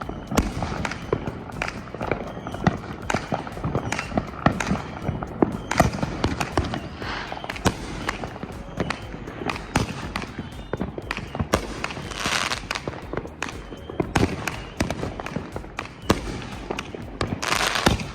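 Consumer fireworks going off in rapid succession: dense crackling pops and bangs, with short hissing bursts about twelve seconds in and again near the end.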